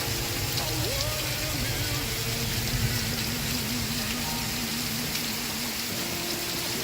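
Steady rain falling as a constant hiss, with faint music from a TV show underneath, including a held, wavering note.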